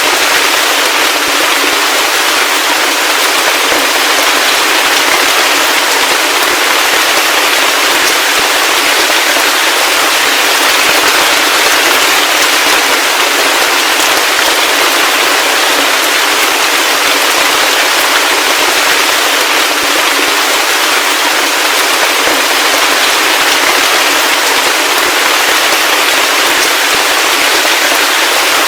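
Heavy rain falling steadily, a dense even hiss of countless drops with a fine crackle and no low rumble.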